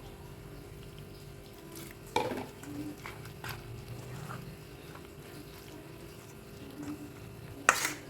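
Kitchen utensil sounds during bakwan preparation: a few light clicks and scrapes, with two louder sharp clatters, one about two seconds in and one near the end.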